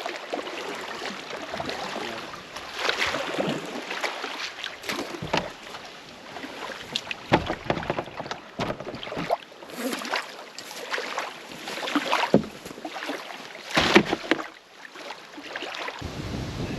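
Canoe paddle strokes, with a short splash every second or two over a steady hiss.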